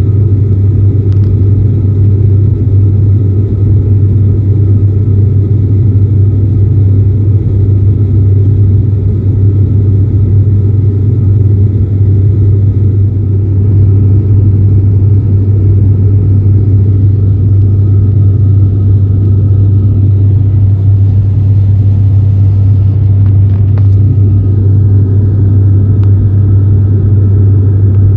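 Steady, loud drone inside an ATR turboprop airliner's cabin: a strong low propeller hum with engine rumble and a faint high steady tone, unchanging throughout.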